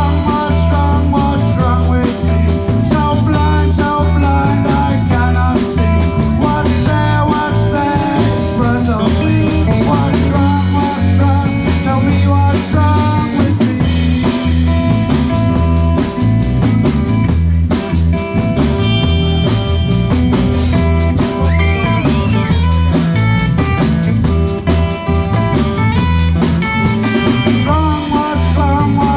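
Live rock band playing an instrumental stretch: electric guitar lead over bass and drum kit with percussion, loud and steady.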